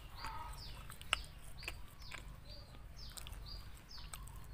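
Small birds chirping over and over, each call a short note falling in pitch, about two a second. A single sharp click about a second in.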